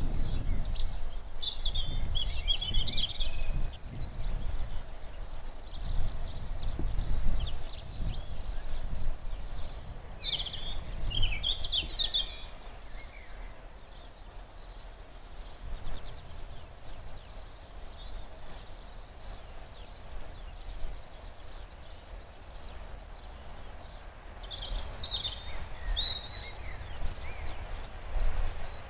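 Small birds singing short, high phrases every few seconds over a gusting low rumble that eases off about halfway through.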